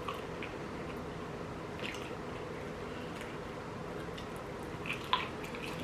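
A person chewing food, with scattered short wet mouth smacks and clicks over a faint steady room hum.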